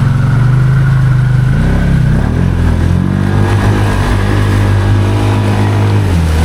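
Can-Am Outlander 700 XMR ATV engine running hard under load in deep mud. The revs dip and waver about two seconds in, then climb and hold high before easing off near the end.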